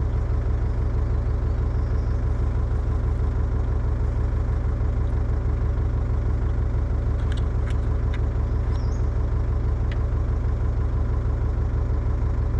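Excavator's diesel engine idling steadily, with a few faint clicks in the second half.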